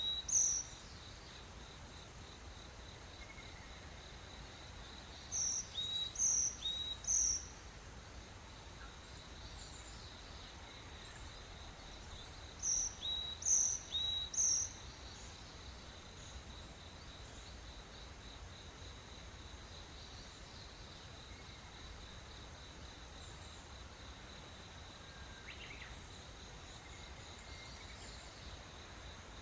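Tropical rainforest morning ambience: a steady high insect trill, over which a bird repeats a short phrase of three or four high notes, once near the start, again about six seconds in and again about thirteen seconds in.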